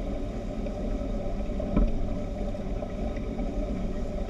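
Speedboat engine running steadily under a rush of noise, with one brief thump about two seconds in.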